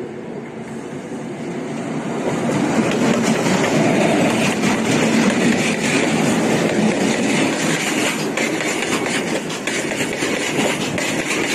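A freight train passing close by. Its rumble builds over the first few seconds as the locomotive comes up, then a string of box wagons rolls past with the wheels clattering over the rails.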